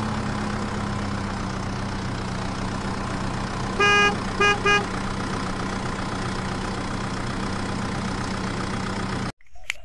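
Truck engine running steadily, with the horn sounding three times about four seconds in: one longer blast, then two short toots. The engine sound cuts off abruptly near the end.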